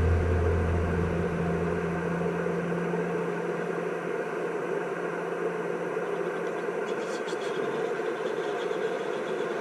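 Steady hiss and static from an HF amateur radio transceiver tuned to the 10 m band, with no station speaking. A low hum fades away over the first three seconds.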